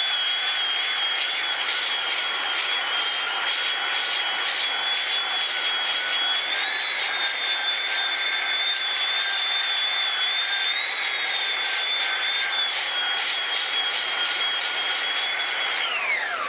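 Handheld electric sanding tool with a 36-grit Diablo disc running steadily against the end grain of a wooden stump, taking down a high spot to flatten the face. Its high whine holds level with small wavers, then falls in pitch and dies away at the very end as the motor is switched off and spins down.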